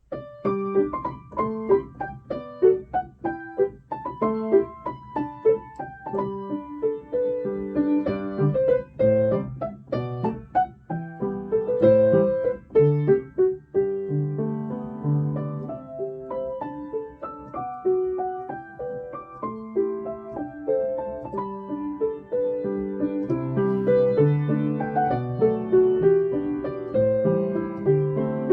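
Solo piano playing a calm piece: a melody of single struck notes over sustained chords, each note starting crisply and left to ring.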